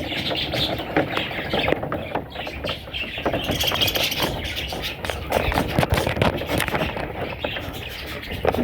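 Budgerigar chicks chirping, over many small clicks and rustles.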